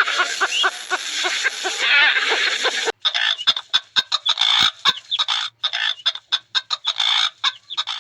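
Chickens clucking in many short, repeated calls. About three seconds in the sound cuts abruptly, and what follows is a run of short, separate calls with brief gaps between them.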